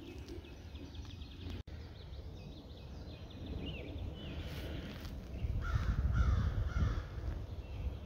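Birds calling over a low wind rumble on the microphone; the rumble swells a little past halfway.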